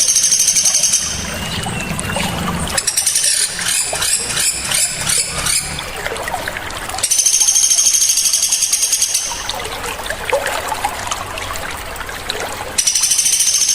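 Sharp, high-pitched bird trills coming in bursts of about two seconds, three times, with a busier repeated chattering between them, over a steady trickle of running water.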